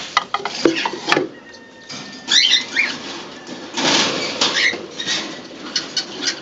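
Pigeons crowding onto a feed mix: pecking and scuffling clicks, a flurry of flapping wings, and a few short high chirping calls.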